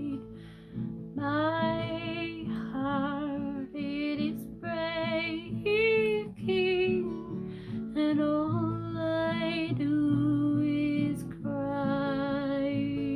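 A woman singing a slow song with acoustic guitar accompaniment. Her long sung notes carry vibrato, and the last one is held for about two seconds.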